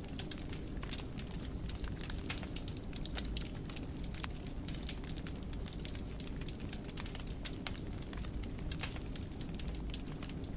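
Wood fire burning in a fireplace, crackling with many sharp, irregular pops over a steady low rumble of flame.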